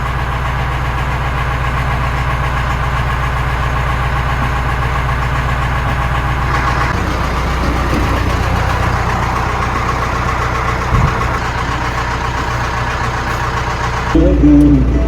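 AGCO 6670 loader tractor's diesel engine running steadily.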